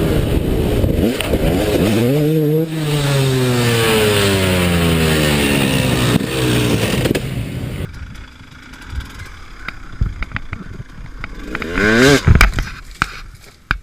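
Dirt bike engine revving hard, then its revs falling away over several seconds. About eight seconds in the sound changes abruptly to quieter knocks and clattering, with a short rev rising and falling near the end.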